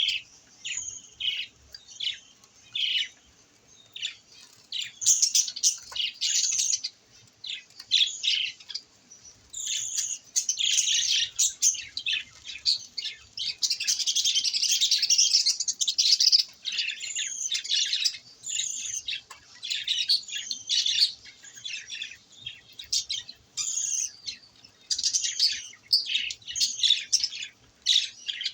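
Budgerigars chirping: many short, high chirps in quick, overlapping runs, busiest in the middle.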